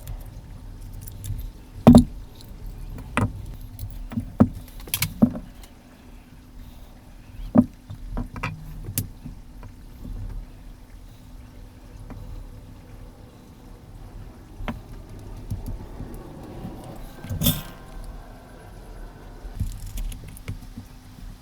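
Scattered clicks, taps and knocks of small metal and plastic microphone parts and tools being handled during disassembly of a dynamic microphone. The loudest knock comes about two seconds in, and a rougher scraping stretch ends in a sharp knock about seventeen seconds in.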